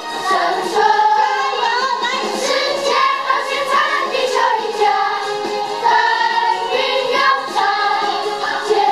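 Music for a children's exercise routine: a sung melody with several voices together over a backing track with a steady beat.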